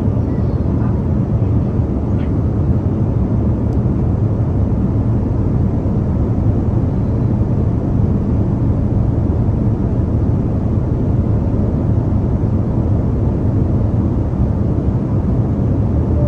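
Steady low roar of a passenger airplane's cabin in flight, engine and airflow noise without change.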